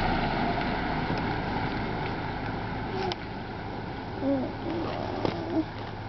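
Steady low hum of a running vehicle engine over an even outdoor background hiss, with a few faint short chirp-like glides and soft clicks in the second half.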